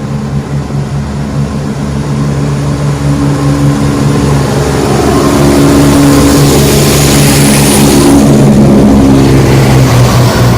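Class 170 Turbostar diesel multiple unit pulling away, its underfloor diesel engines working under power. The sound grows louder as the train passes close, with a rushing noise joining the engine note and peaking about two thirds of the way in before easing off.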